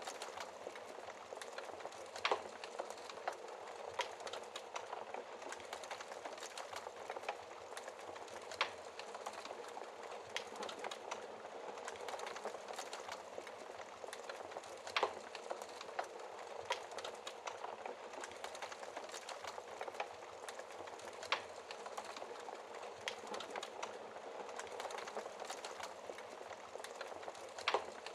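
Wood fire burning in a fireplace: a steady dense crackle, with a handful of sharper, louder pops every few seconds.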